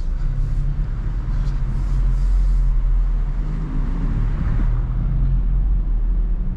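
Honda Civic Type R's 2.0-litre turbocharged four-cylinder engine running at low speed, a steady low drone with road rumble.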